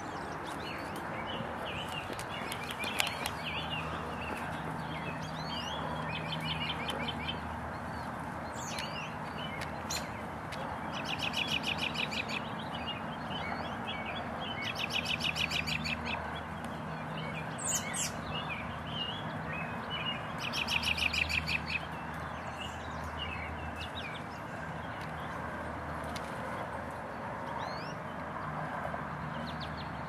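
Small birds chirping and singing, with three loud buzzy trills about 11, 15 and 21 seconds in, over a steady outdoor background hiss.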